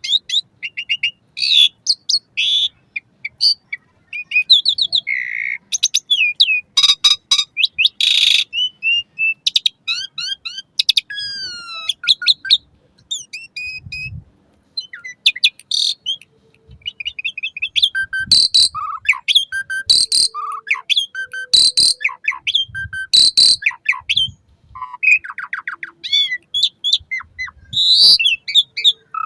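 Asian pied starling (jalak suren) singing a long, varied song of quick whistled notes and chattering trills, broken by several harsh rasping calls.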